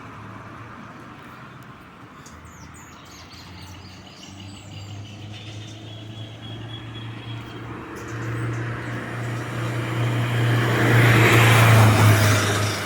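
Birds chirping in short calls, then a car approaching, its engine hum and tyre noise growing steadily louder until it passes close near the end.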